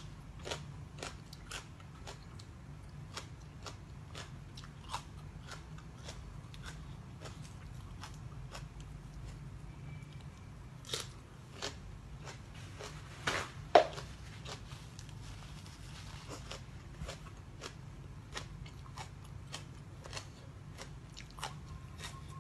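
A person chewing and crunching crisp food close to the microphone: a string of short crunches, the loudest bites about 11 and 13 to 14 seconds in, over a faint steady low hum.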